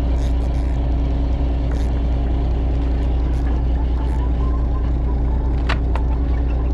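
Fishing boat's engine running with a steady low hum, and one sharp click a little before the end.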